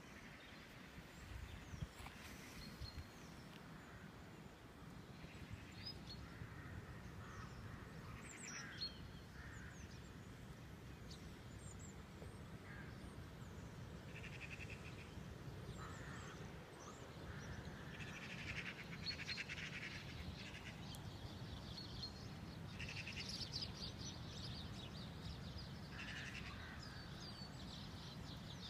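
Wild birds calling and chirping now and then, faint, over a steady low rumble of wind on the microphone.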